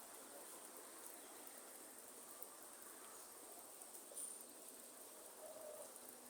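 Faint rainforest night ambience: a steady high insect drone, like crickets, over a light hiss of rain, with one short high chirp about four seconds in.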